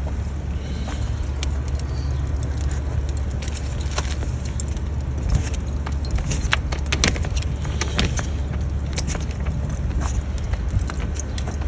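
Charcoal and wood fire crackling, with scattered sharp snaps and clicks over a steady low rumble.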